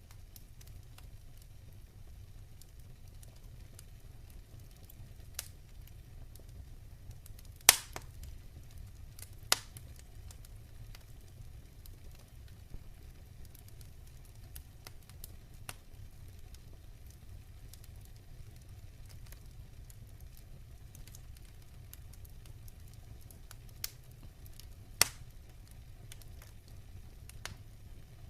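Fire burning in a fireplace: a steady low rumble with scattered faint crackles. Two loud, sharp pops come a couple of seconds apart about a quarter of the way in, and a third comes near the end.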